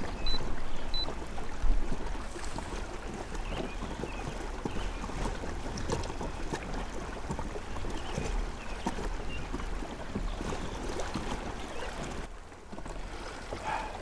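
Water splashing and lapping irregularly against a kayak hull, with a steady low rumble underneath.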